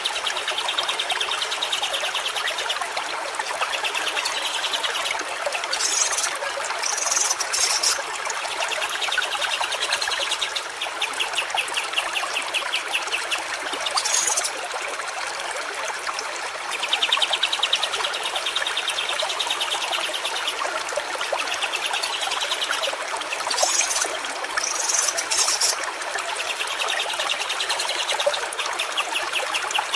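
Stream water trickling and splashing steadily. A rapid pulsing trill comes and goes every few seconds, with a few short, high chirps between.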